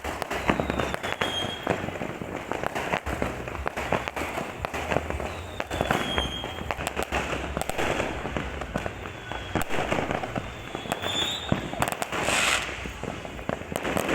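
Aerial fireworks going off in a dense, continuous crackle of pops and bangs. Short falling whistles sound now and then, and a brief hiss comes near the end.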